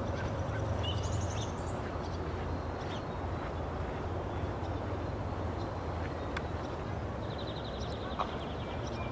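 Small birds chirping over a steady low outdoor rumble: short high chirps about a second in, and a rapid trill near the end.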